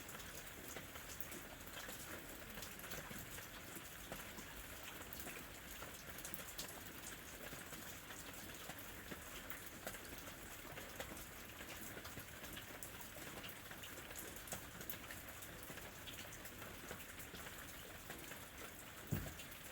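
Steady rain, with many individual drops striking close by in quick, irregular clicks. A single louder thump comes near the end.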